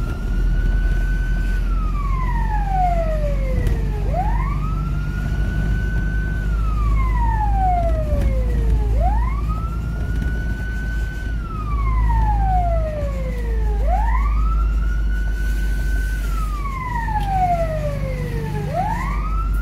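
Fire engine siren sounding in a repeating cycle: the pitch sweeps up quickly, holds for a moment, then slides slowly down, about every five seconds, four times over. A steady low rumble runs beneath it.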